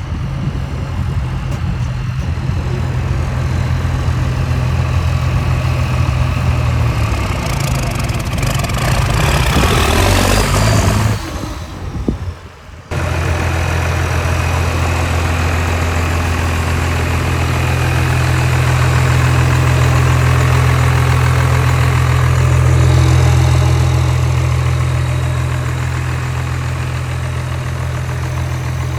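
Heavy truck engine idling with a deep, steady note. About nine seconds in a louder rising rush sweeps up, then the sound drops away for about two seconds and comes back abruptly.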